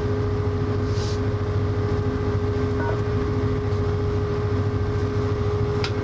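Steady drone of a moving diesel freight train heard from on board, with a constant low hum and a steady mid-pitched tone. A brief faint high squeal comes about a second in and a short click near the end.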